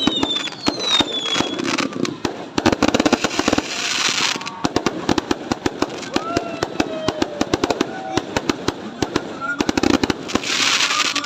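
Fireworks going off in a rapid run of sharp crackling bangs, with bursts of hissing about three seconds in and again near the end.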